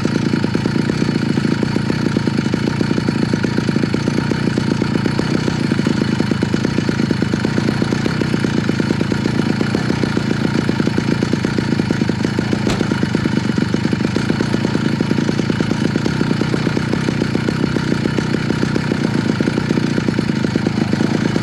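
Small engine of a motorized bicycle running steadily at an even speed, with a single faint click about midway.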